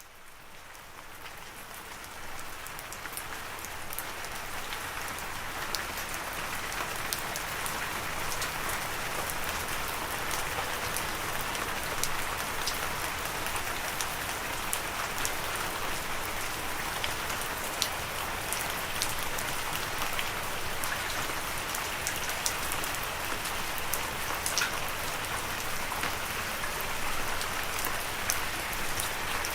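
Steady rain falling, a dense hiss with individual drops ticking sharply on a surface; it fades in from silence over the first few seconds, then holds steady.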